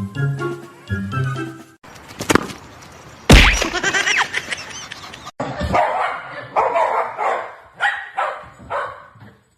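Background music with a beat for the first two seconds, then a cut to a dog barking over and over, about two barks a second.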